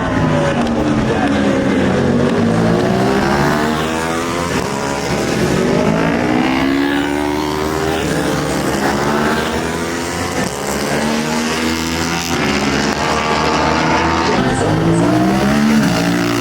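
Racing superbike engines at high revs, several bikes overlapping, their pitch repeatedly climbing and then dropping through gear changes.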